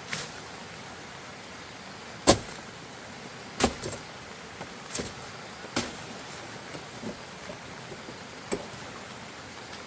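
A series of short, sharp knocks at uneven intervals, about eight in all, the loudest a little over two seconds in, over a steady hiss.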